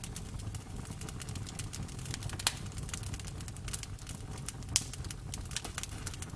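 Campfire burning with a low steady rumble of flames and irregular wood crackles, with two louder pops about two and a half seconds in and near five seconds in.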